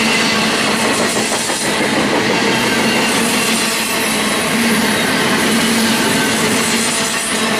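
Intermodal freight train cars rolling past at steady speed, with a continuous rumble and rail noise.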